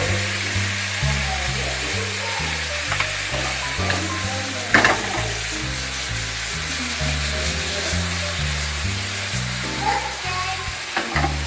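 Chicken, shrimp and vegetable stir-fry sizzling in a pan in its soy-hoisin sauce as it is stirred, with a sharp clack of the utensil about five seconds in. Background music with a stepping bass line plays underneath.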